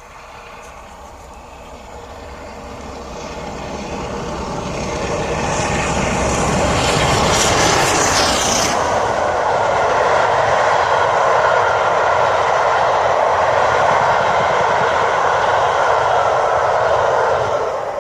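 Steam train approaching and passing: the sound grows louder over the first several seconds and is loudest with a hissing rush as the locomotive goes by. It is followed by a steady loud rumble of the train rolling past, which drops away near the end.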